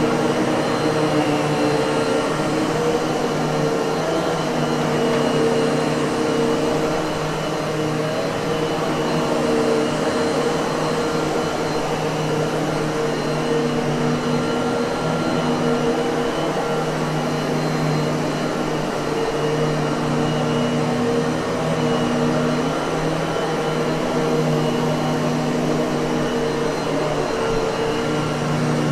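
Miele vacuum cleaner running steadily: a constant motor hum over rushing air, with no change in speed.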